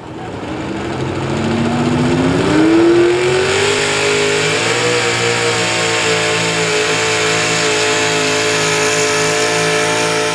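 Super stock two-wheel-drive pulling truck's engine at full throttle: the revs climb steeply over the first few seconds, then hold high and steady.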